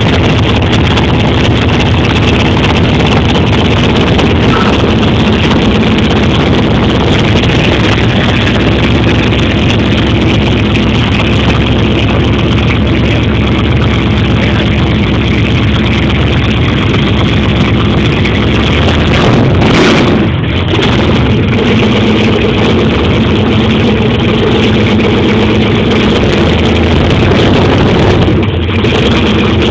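Twin-turbo 440ci LSX V8 in a Holden VE Commodore SS idling loudly and steadily, with a brief sharp burst of sound about twenty seconds in.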